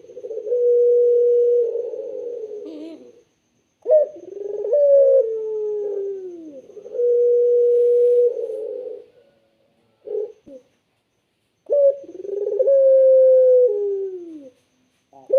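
Puter (ringneck dove) cooing repeatedly. Each coo phrase is a low note held level, then one that slides downward, with short pauses and a brief clipped note between phrases.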